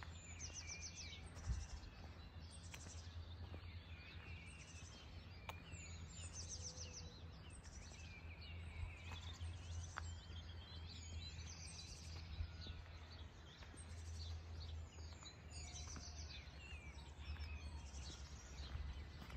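Several songbirds singing and calling in a rapid string of chirps and trills, over a faint steady low rumble.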